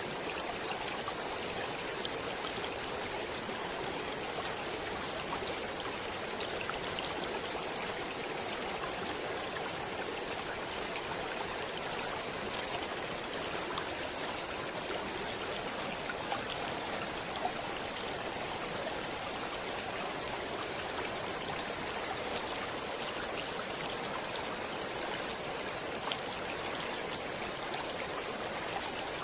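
Stream water flowing steadily: an even, unbroken rush with many small splashes and trickles scattered through it.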